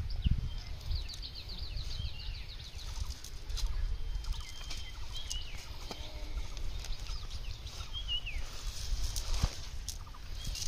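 Birds calling: a rapid trill of short high notes in the first couple of seconds, then several separate short chirps that slide down in pitch, over a low rumble and a few light clicks.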